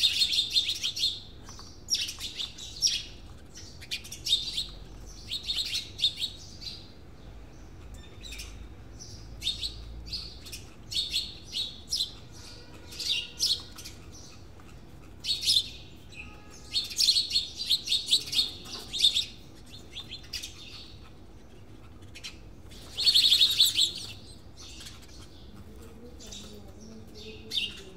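Small birds chirping and twittering in repeated quick bursts with short pauses between them; the loudest burst comes late.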